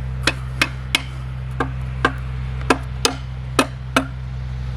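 About nine sharp knocks of a tool striking the wooden hive, roughly two a second and unevenly spaced, as small hive beetles that the bees have driven up on top are smashed. A steady low hum runs underneath.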